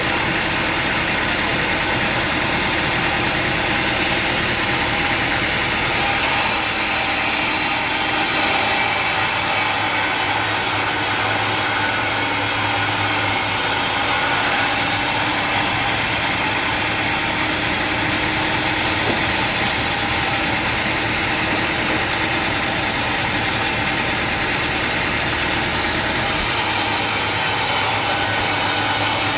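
Sawmill machinery running steadily, a continuous engine-driven machine noise, with an abrupt change in its high hiss about six seconds in and again near the end.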